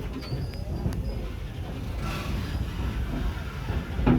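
Steady low rumble of a moving park train, heard from aboard a passenger car.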